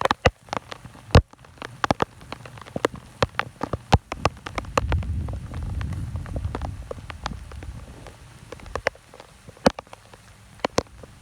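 Heavy rain falling, with large drops striking close by as sharp, irregular ticks. A low rumble swells for a few seconds in the middle.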